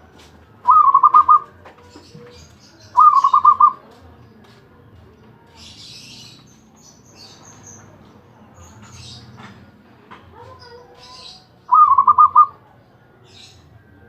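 Zebra dove (perkutut) cooing: three loud phrases, each a quick run of four or five trilled notes, near the start, about three seconds in, and near the end. Faint high chirps sound between the phrases.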